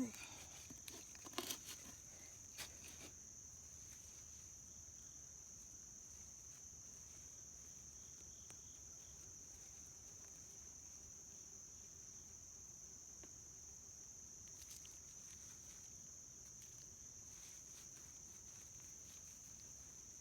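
A steady high-pitched insect chirring, with a few short rustles and knocks in the first three seconds.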